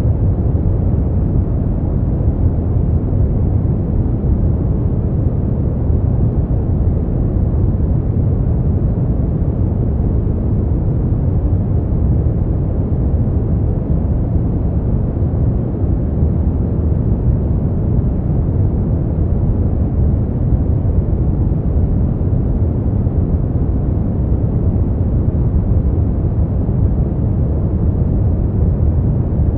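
Steady sleep-noise track: an unbroken, deep hiss with most of its weight in the low end and no high hiss, unchanging throughout.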